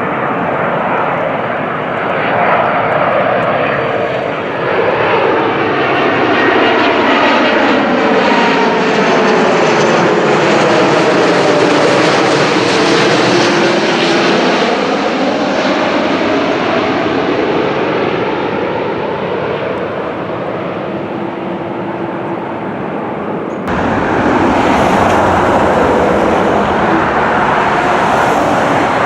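Jet airliner's engines as it flies low past overhead, a loud steady rush with a sweeping, phasing tone that dips in pitch as it passes and rises again. The sound changes abruptly about 24 seconds in.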